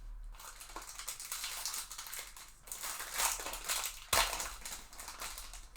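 Foil trading-card pack wrapper crinkling and crackling as it is handled and opened, with one sharp click about four seconds in.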